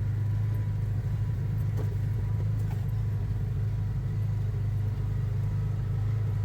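ATV engine running with a steady low drone.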